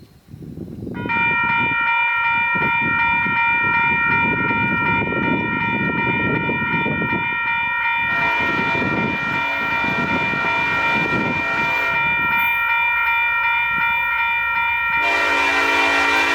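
Nathan Airchime K5LLA five-chime air horn on a Union Pacific EMD SD70ACe locomotive sounding one long continuous chord, starting about a second in, over the rumble of the passing train. Near the end the chord changes and deeper notes come in.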